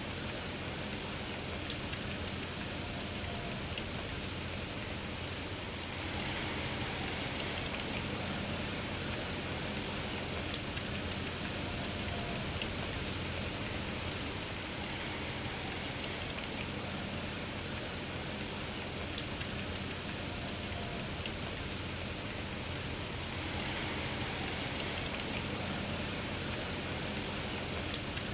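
Steady rain falling in an even hiss, with a single sharp tick about every nine seconds, four in all.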